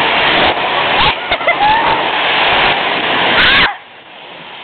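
Car wash spray wand spraying water with a loud, steady rush that cuts off suddenly near the end.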